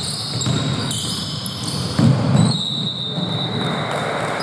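Basketball game in a gym: a ball bouncing on the court amid court noise and short high-pitched squeaks, with a louder impact about two seconds in.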